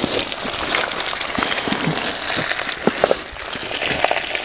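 Food frying in coconut fat, a steady sizzle with sharp pops of spitting fat.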